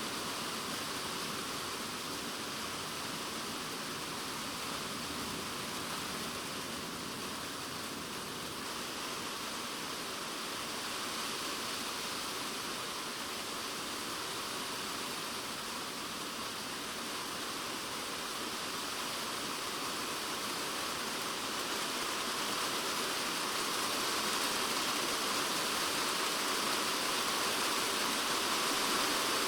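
Typhoon rain on a polycarbonate shed roof, heard from inside the shed: a steady, dense hiss of drops that grows a little louder about three quarters of the way through.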